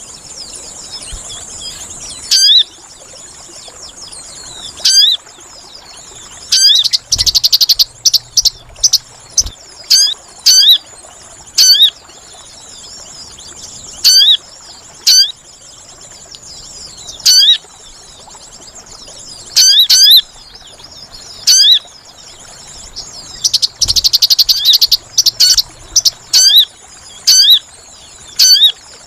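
Sogon bird lure call: short, sharp, upward-hooking chip notes repeating every second or two, with two bursts of rapid chattering about seven and twenty-four seconds in, over a steady high hiss.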